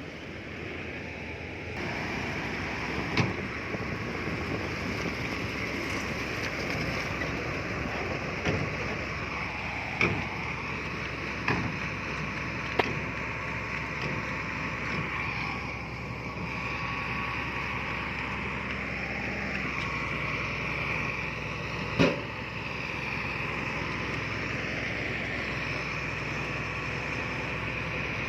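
Diesel engine of heavy earthmoving machinery running steadily, with slow shifts in pitch as it works, and a sharp clank every few seconds, about six in all, the loudest near the end.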